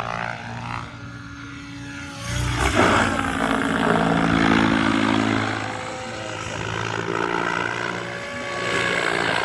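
RS7 radio-controlled helicopter in flight, its rotor and motor running with a steady pitched tone. It swells louder with a whoosh about two seconds in and stays loud for a few seconds before easing off.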